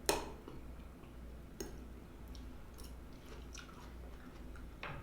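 A person chewing a mouthful of chili mac and salad close to the microphone, with sharp clicks: a loud one right at the start, another about a second and a half in, and a few fainter ticks.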